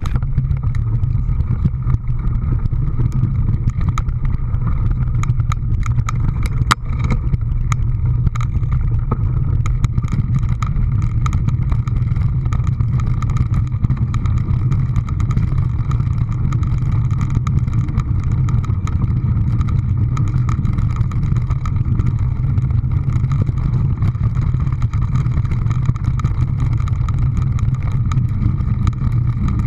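A motor running steadily with a constant low hum, with scattered sharp clicks.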